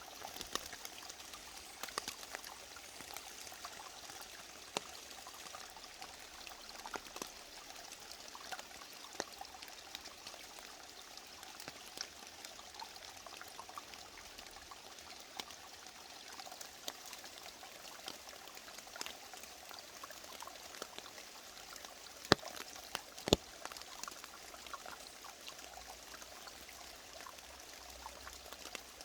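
Mountain valley stream running steadily, with small splashes and trickles ticking through it and two sharper clicks a little after the middle.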